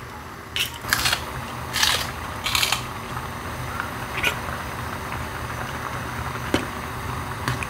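Steady low room hum with about seven short, sharp handling noises scattered through it, the loudest clustered in the first three seconds.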